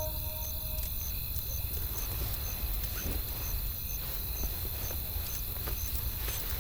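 Campfire crackling: irregular sharp pops and snaps of burning wood over a low steady rumble, with a faint high chirp repeating about twice a second.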